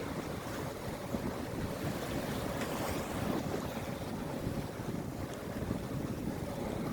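Steady wind noise on the microphone over sea waves, with a faint steady engine hum from a multiday fishing boat motoring out of the harbour.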